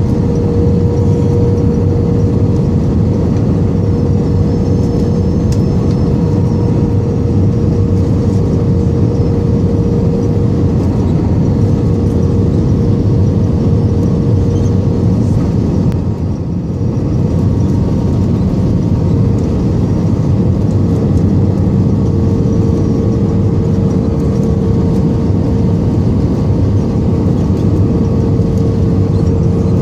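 Steady jet engine and airflow noise heard inside the cabin of an Airbus A320 on approach, with a constant mid-pitched hum running through it. It dips briefly a little past halfway.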